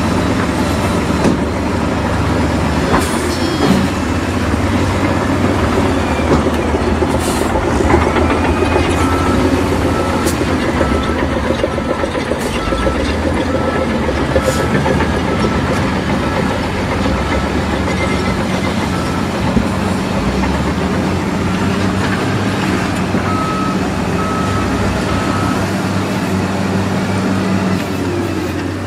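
Heavy construction machinery running: a bulldozer's engine and the metallic clatter of its crawler tracks. A reversing alarm beeps in a steady series through the middle, stops, then beeps again briefly near the end.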